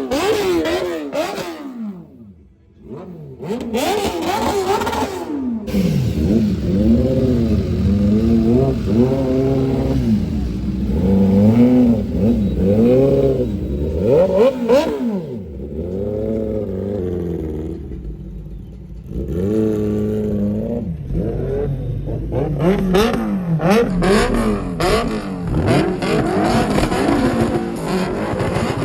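Triumph motorcycle fitted with an aftermarket SC-Project exhaust being revved over and over, the engine note rising and falling with each blip of the throttle. There is a short lull about two seconds in.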